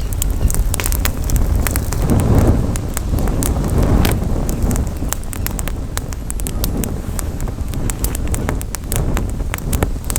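Campfire crackling with many sharp, irregular pops and snaps over a steady low rumble that swells briefly about two to four seconds in.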